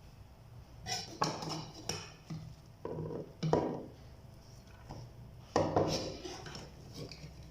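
Utensil clattering and scraping against cookware in irregular knocks, loudest about three and a half and five and a half seconds in.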